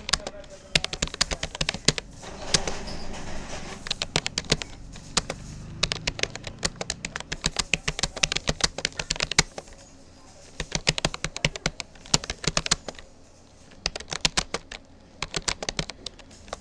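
Typing on a Rapoo computer keyboard: a fast, uneven run of key clicks, broken by brief pauses about ten and thirteen seconds in.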